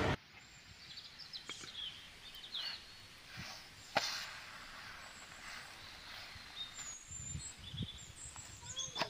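Birds chirping now and then over a faint outdoor background, with one sharp click about four seconds in and a few soft knocks near the end.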